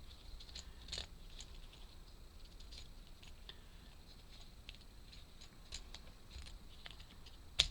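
Light, scattered clicks and taps of small laser-cut wooden puzzle parts being handled and pushed apart and together, with one sharper click near the end.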